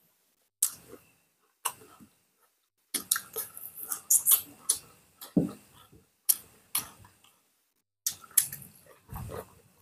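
Close-up mouth sounds of people eating boiled pork and rice by hand: wet chewing and lip smacks in irregular clusters, with a dull thump about five seconds in and another near the end.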